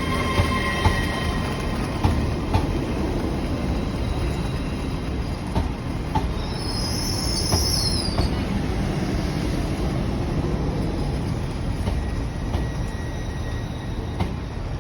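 LNER Class 801 electric train running: a steady low rumble with occasional clicks from the wheels over the rails. A high-pitched wheel squeal swells and fades over about two seconds, about six seconds in.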